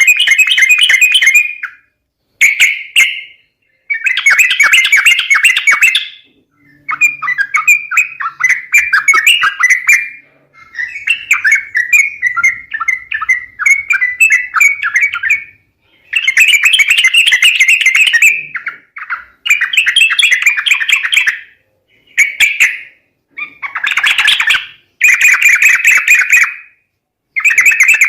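Yellow-vented bulbuls (trucuk) chattering and calling in loud, rapid bubbly phrases of one to three seconds with short pauses between, played as a lure sound to draw wild birds in.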